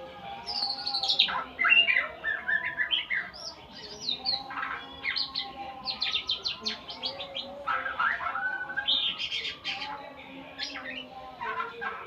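A murai songbird singing a varied, continuous song of quick chirps, whistled glides and fast trills. Partway through comes a rapid series of repeated sharp notes.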